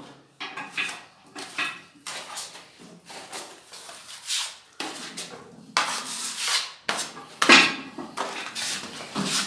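Irregular clatter and rubbing of hard objects being handled: a run of short knocks and scrapes at uneven intervals.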